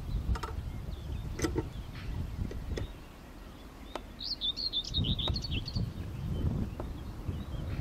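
A small bird twittering in a quick run of high chirps for about a second and a half past the middle. Underneath is a low rumble, with a few soft clicks in the first half.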